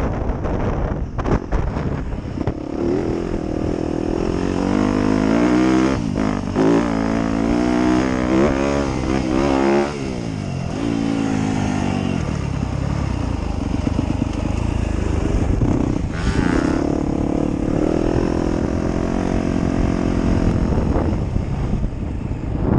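Motocross dirt bike engine ridden over a gap jump at low speed, revving up and down. Its pitch climbs for several seconds, drops off suddenly about ten seconds in, then runs steadier.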